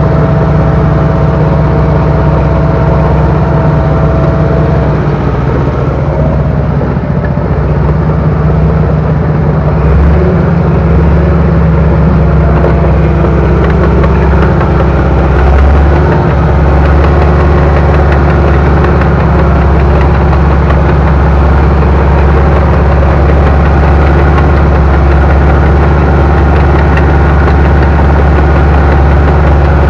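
Bulldozer engine running close by, loud and steady, growing stronger about ten seconds in and again near sixteen seconds.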